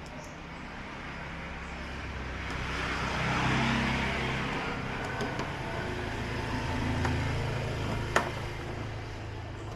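A motor vehicle's engine runs with a low hum and passes, swelling and fading again a few seconds in. A single sharp click comes near the end.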